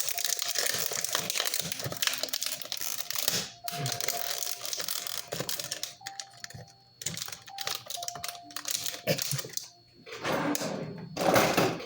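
Plastic crinkling and rustling as food is handled, loudest in the first few seconds and again near the end, with light clicks and taps in between.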